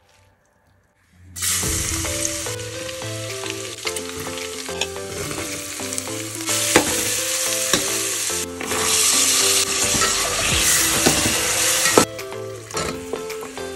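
Chopped onions, and then green peas, sizzling as they fry in hot oil in a metal pot, stirred with a metal spatula that clicks and scrapes against the pot. The sizzle starts suddenly about a second in and drops in level near the end.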